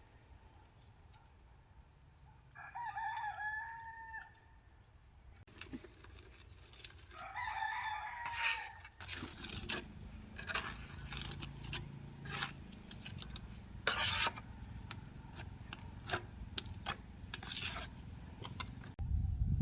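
A rooster crows twice, each crow about a second and a half long. From about halfway through come scattered sharp knocks and clatter over a steady low hum.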